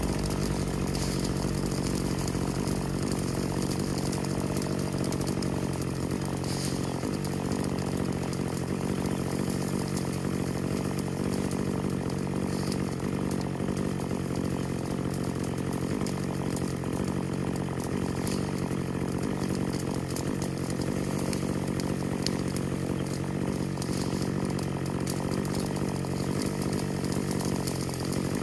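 An engine running at a steady speed throughout, with an even, unchanging pitch.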